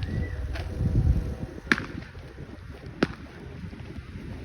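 Three sharp pops about a second apart, like firecrackers going off, over a steady low rumble of wind on the microphone.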